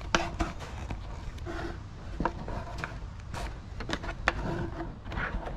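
Irregular clicks, knocks and light metallic taps of hand tools and parts being handled in a car's engine bay, some with a brief ring.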